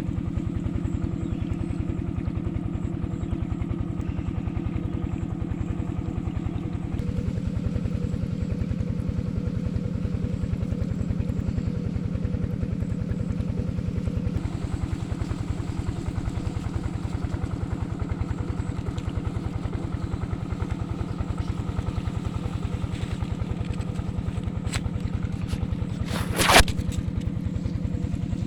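Diesel irrigation engine running steadily at an even beat. Near the end there is a single sharp, loud knock.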